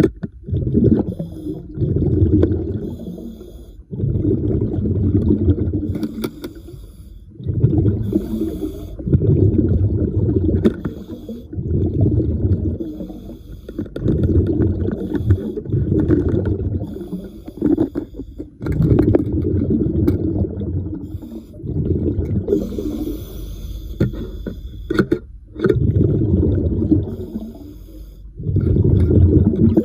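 Underwater diver breathing through an air regulator: a low bubbling rumble of exhaled air, repeating every two to three seconds, with a short hiss of inhaled air between the breaths.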